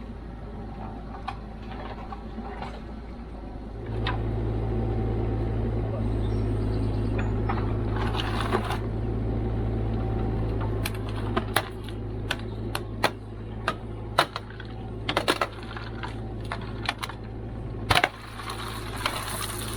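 Kubota KX121-3 mini excavator's diesel engine running, growing louder about four seconds in, with many sharp clanks and knocks through the second half.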